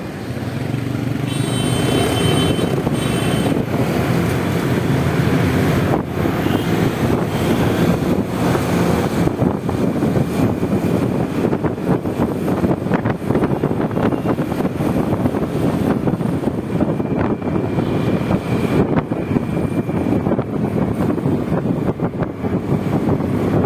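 Honda Vario 125 scooter's single-cylinder engine running under way, with steady road and wind noise on the microphone. A brief high-pitched tone sounds about a second in.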